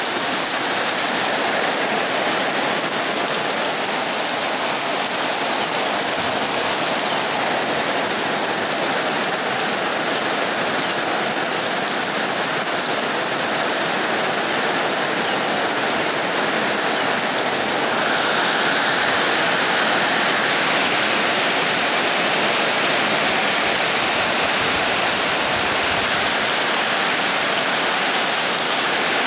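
Heavy rain pouring steadily, with water streaming off a roof edge and running over muddy ground. The hiss grows a little brighter partway through.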